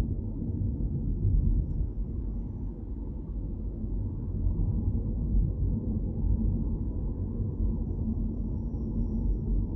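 Steady low rumble of a car driving along, road and engine noise heard from inside the car.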